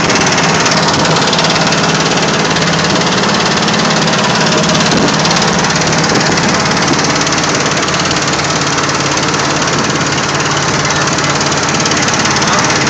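A boat's engine running steadily at an even speed, with a dense rushing noise under it.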